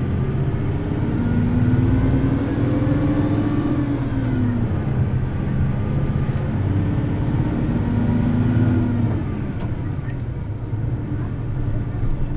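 Hino Blue Ribbon City Hybrid city bus pulling away under power, heard from inside the cabin: the diesel engine revs up twice, each time falling back, about four seconds in and again near nine seconds. A faint high whine rises and falls with each pull.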